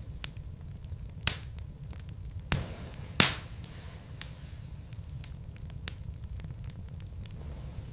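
Wood fire burning in a fireplace: a steady low rumble with scattered crackles and a few sharp pops from the logs, the loudest about three seconds in followed by a brief hiss.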